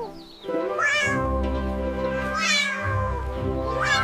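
Cat meowing three times, each call rising then falling, over steady background music.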